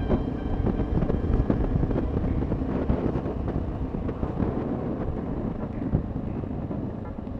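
Honda XR650L single-cylinder four-stroke dual-sport motorcycle running under way, its engine rumble mixed with wind buffeting the microphone, getting a little quieter near the end.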